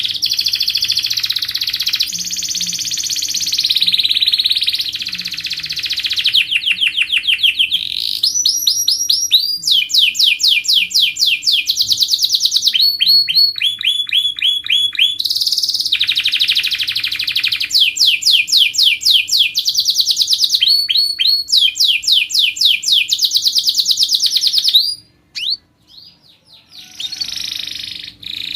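Canary singing a long, continuous song: buzzy rolls alternating with fast trills of quickly repeated rising notes, breaking off briefly near the end before starting again.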